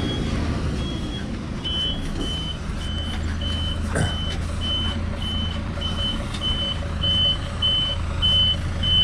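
Truck reversing alarm beeping steadily, a little under twice a second, over the low running of a truck engine. A second beeper at a slightly lower pitch takes over about two seconds in. There is a single knock about four seconds in.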